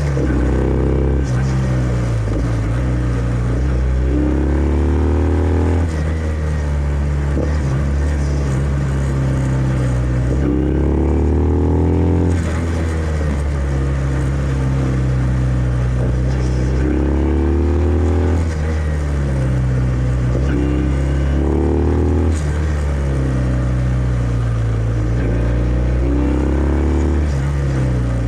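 Kawasaki W650's air-cooled parallel-twin engine running on the road through its stock exhaust. The revs climb and then drop back several times, about every five or six seconds.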